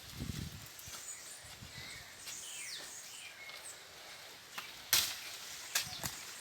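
Outdoor ambience with a few faint bird chirps and some low thuds of handling at the start. Two sharp cracks come near the end, the loudest about five seconds in.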